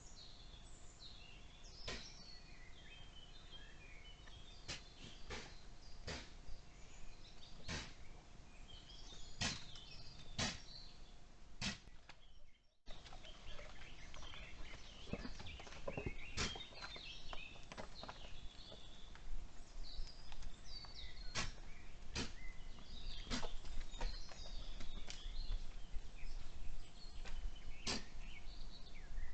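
Woodland ambience: small birds chirping and singing, with sharp clicks every second or two and a faint steady hum underneath. The sound cuts out briefly about thirteen seconds in.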